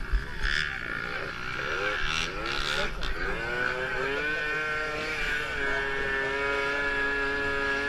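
Dirt bike engines revving: the pitch climbs about halfway through, then holds one steady high note for the last couple of seconds.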